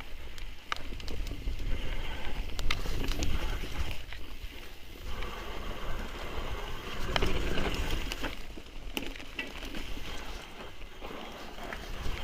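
Mountain bike being ridden over a rough trail, with tyres rolling on dirt and stones and the bike rattling and clicking over bumps. A steady low rumble of wind on the microphone runs underneath.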